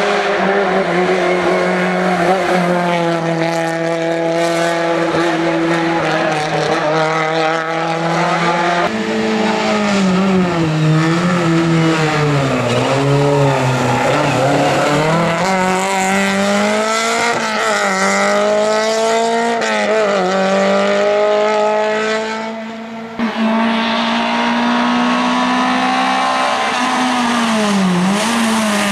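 Skoda Favorit rally car's engine running hard at stage speed, its pitch holding, dropping and climbing again and again through gear changes and corners. About 22 seconds in it falls away briefly, then comes back suddenly.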